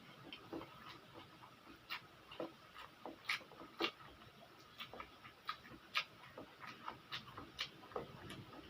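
A person eating spicy pancit canton noodles: irregular, faint wet chewing clicks and lip smacks, with a couple of louder smacks midway.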